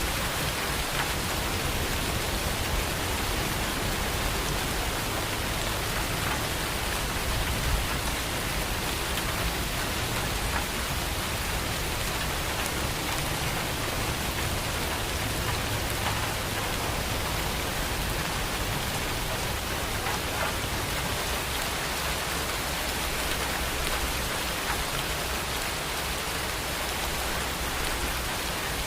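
Steady rain falling, an even, dense hiss with no break.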